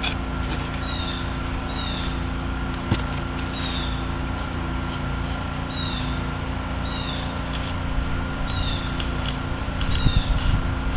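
A bird chirping over and over in short, high, falling notes, often in pairs, over a steady hum, with a few knocks near the end.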